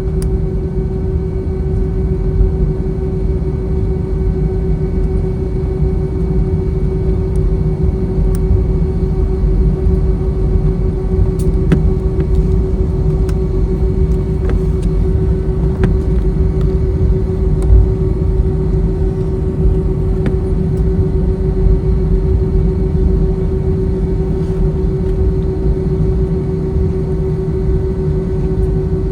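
Airbus A321 cabin noise while taxiing: a steady low rumble of the airliner rolling with its engines at idle, over a constant hum, with a few faint clicks of cabin fittings.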